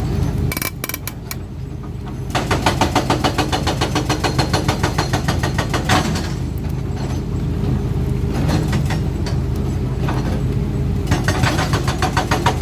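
Cat 320D2 excavator's diesel engine running steadily. A few sharp metallic clicks come near the start, then a rapid rhythmic clatter of about four beats a second sets in a couple of seconds in, eases off around the middle and returns near the end.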